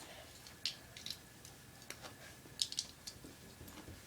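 Small plastic Lego pieces clicking as they are handled and pressed together: scattered sharp clicks, the loudest cluster about two and a half seconds in.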